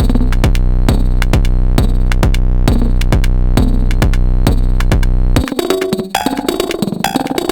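Sonic Potions LXR-02 digital drum machine playing a techno groove: a steady, evenly spaced kick over a thick low sustained tone. About five seconds in, the kick and low end drop out, leaving busier, lighter percussion hits.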